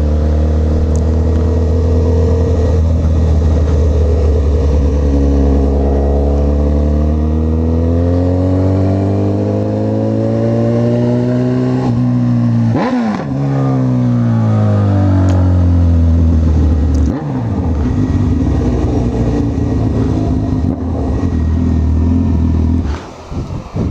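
Honda CB1000R inline-four motorcycle engine under way: its note climbs steadily for several seconds as the bike accelerates, breaks off sharply about halfway through, then winds down and holds a steady note before dropping away near the end.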